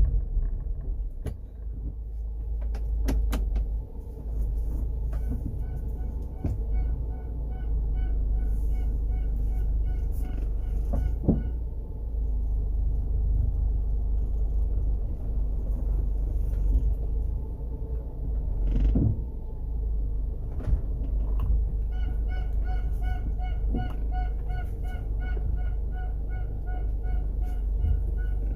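First-generation Honda CR-V four-cylinder engine running with a steady low hum, the noise the owner puts down to incorrect distributor timing. Twice for several seconds a high pulsed tone repeats over it, about two or three pulses a second.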